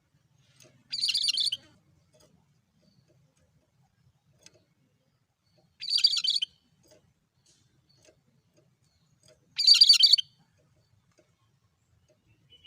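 Cucak kerinci giving the same short, buzzy call three times, about every four seconds: a monotonous, repeated call.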